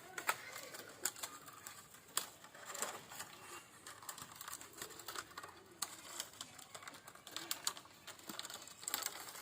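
Irregular light clicks and taps of bamboo strips and sticks being worked by hand, a few knocks a second at most, unevenly spaced.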